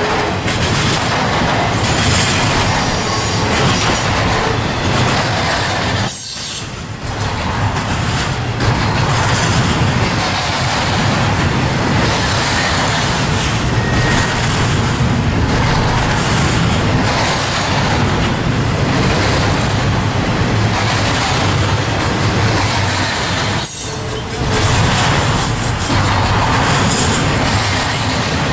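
Intermodal freight train's container cars rolling past at close range: a steady, loud rumble and rattle of steel wheels on rail. The noise dips briefly twice, about six seconds in and near the end.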